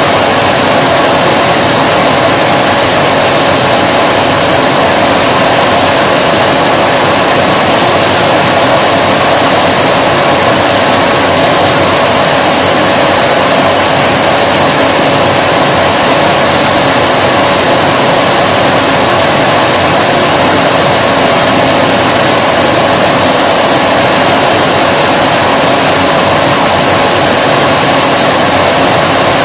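Vacuum cleaner motor running continuously: a steady, unchanging whooshing drone with a constant whine on top.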